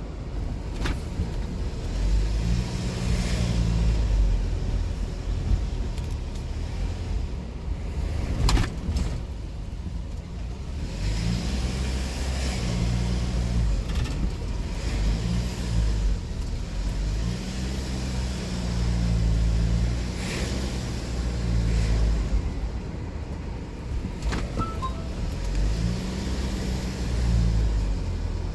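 A car's engine and road noise heard from inside the moving car, the engine note rising and falling several times as it speeds up and slows down. A few sharp knocks come through, the loudest about eight and a half seconds in.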